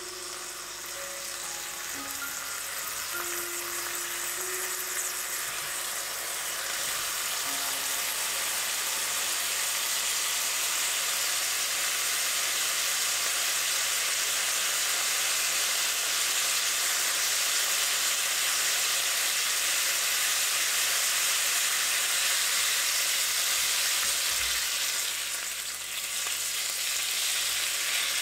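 Food sizzling steadily in a hot frying pan, growing louder over the first several seconds and dipping briefly near the end.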